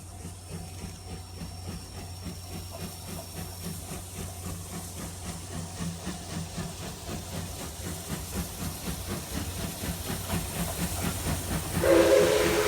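C57 180 steam locomotive's exhaust chuffing in a steady rhythm with hissing steam, growing louder as the train pulls out. Near the end its steam whistle starts to blow.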